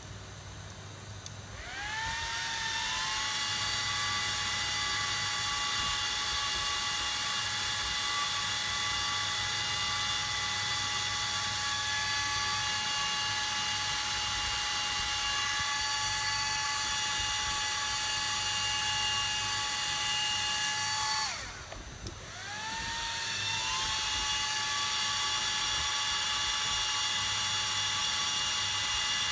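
Hot-air rework station blower spinning up to a steady high whine, cutting off briefly about 21 seconds in with a falling pitch, then spinning up again.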